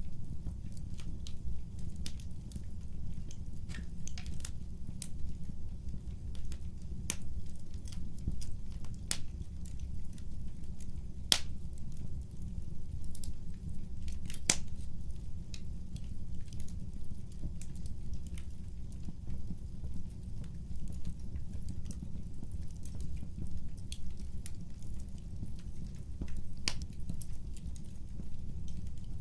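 Wood fire crackling: a steady low rumble of burning with irregular sharp pops and snaps, a couple of louder snaps near the middle.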